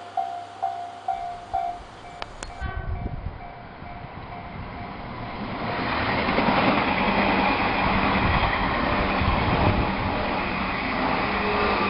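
A warning bell dings about twice a second and stops a couple of seconds in. Then a train comes up and runs past, the rumble of the cars growing loud and staying loud.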